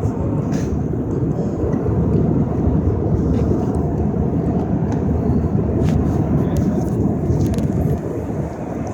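Airliner cabin noise: a steady low rumble of the jet engines and airflow heard from inside the cabin, with a few faint clicks.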